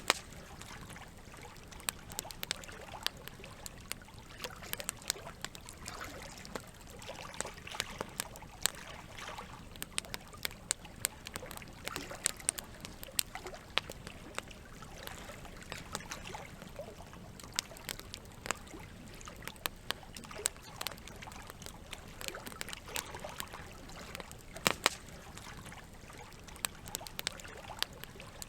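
Campfire crackling, with frequent sharp pops and snaps, over a steady trickle of running water.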